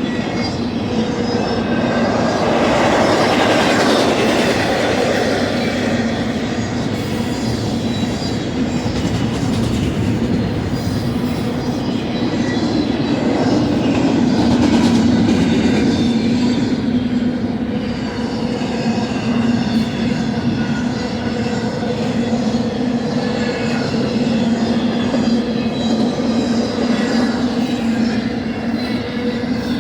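BNSF intermodal freight train's cars rolling past steadily, the wheels running on the rails with a continuous low hum. The noise swells briefly twice.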